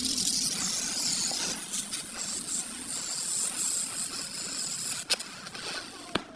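Steady high hiss that stops about five seconds in, followed by two sharp clicks about a second apart.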